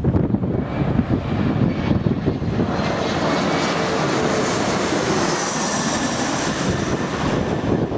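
Jet airliner passing low overhead on final approach, its engine noise swelling to a peak midway with a faint high whine, then falling away. Gusting wind buffets the microphone.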